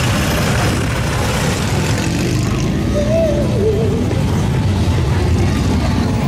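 Motorcycle engines running, a dense low rumble with no break; a short wavering tone rises and falls about three seconds in.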